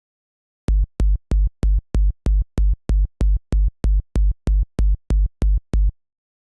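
Synthesized electronic kick drum made in the Kick 2 plugin, playing alone as a steady run of 17 evenly spaced hits, about three a second. Each hit is a deep thump with a short click on top, and the run stops near the end.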